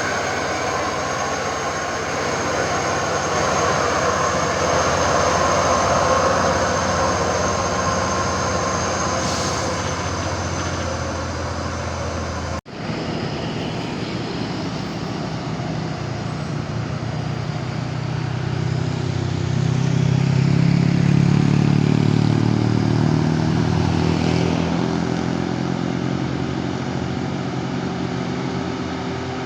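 Truck engines running, with a sudden break about a third of the way through; in the second half a truck's engine grows louder and deeper for a few seconds, then eases off.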